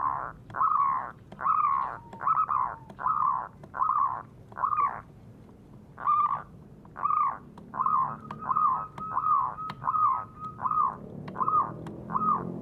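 A bird calling over and over: short harsh, arched notes repeated about one and a half times a second, with a brief pause about halfway through.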